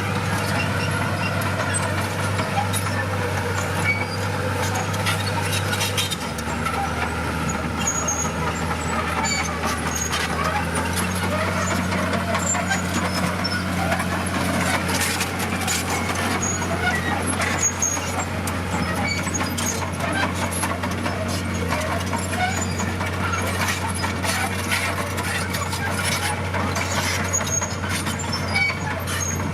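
Heavy diesel engine of earthmoving machinery running steadily, its pitch dropping about six seconds in and changing again around eleven seconds, with scattered clanks and rattles over it.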